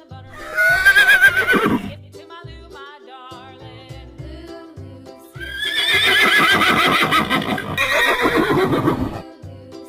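A horse whinnying twice: a short whinny about half a second in, then a longer one of about four seconds from the middle, each starting high and falling with a quavering pitch. Background music with a steady beat plays underneath.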